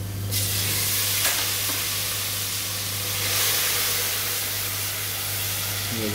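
Splash of water hitting the hot oil and well-fried onion and spice masala in a nonstick pot, bursting into a steady sizzle while a wooden spatula stirs it. The sizzle starts suddenly a moment in, with one sharp clack of the spatula against the pot shortly after.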